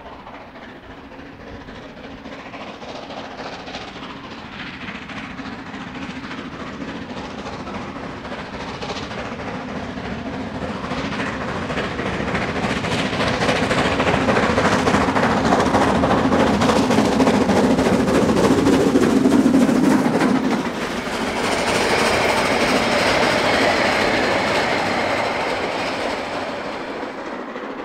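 Narrow-gauge steam locomotive working hard up the Brocken line, its rapid exhaust beats growing steadily louder as the train approaches, loudest about twenty seconds in. Then the sound changes to the rolling and ringing of the passing train before fading.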